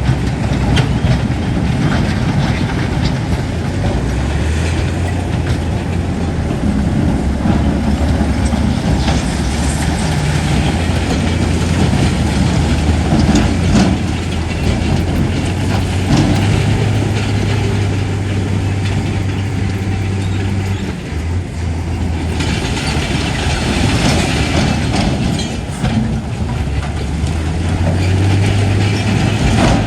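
Bulldozer's diesel engine running hard with the clanking and rattling of its steel tracks, the engine pitch rising and falling. A harsher rushing noise comes in for a few seconds about two-thirds of the way through.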